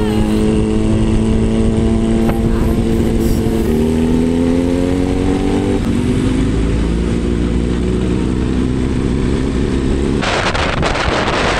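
KTM Duke 390's single-cylinder engine running while riding, its pitch climbing slightly, then dropping suddenly about six seconds in and holding steady lower. Near the end a loud rush of wind noise on the microphone comes in over it.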